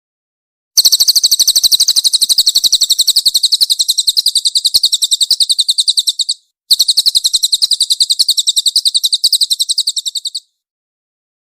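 Cililin bird singing a fast, tightly spaced, high chattering trill of about nine notes a second, with a brief break about six and a half seconds in before it resumes and then stops abruptly.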